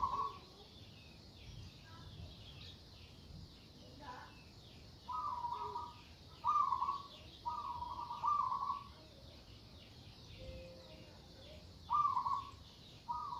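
Zebra dove (perkutut) cooing in short phrases of a few notes, each phrase about a second long, repeated with gaps of a second or more, over faint, fast chirping higher up.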